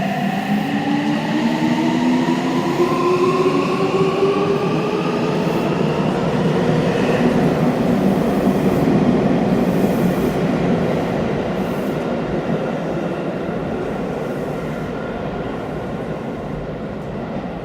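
Seibu 6000 series electric train, set 6113 with renewed traction equipment, pulling away from a station. Its motors whine in several tones that rise together in pitch over the first six seconds as it accelerates, then give way to steady wheel and running noise.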